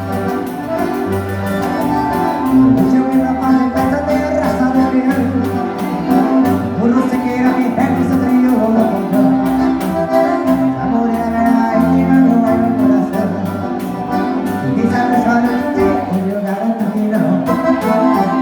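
Live gaúcho dance-band music led by an accordion, with sustained chords over repeating bass notes and a steady dance rhythm.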